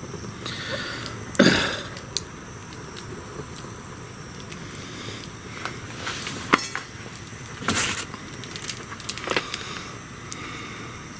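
Wood bonfire crackling, with a few sharp pops and snaps over a steady low hiss; the loudest crack comes about a second and a half in.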